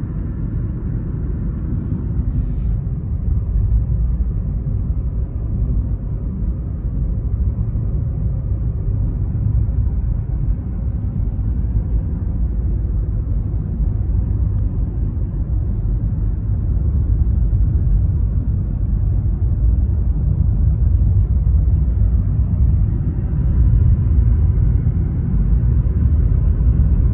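Steady low rumble of road and engine noise heard inside a moving car's cabin, growing a little louder in the second half.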